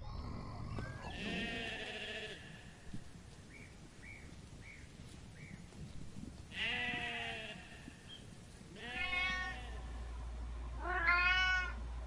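Sheep bleating, then a kitten meowing twice, the second meow the loudest. A few short, faint chirps fall in between.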